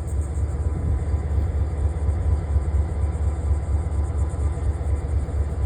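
Diesel locomotive running with a steady low rumble, with a faint steady hum on top.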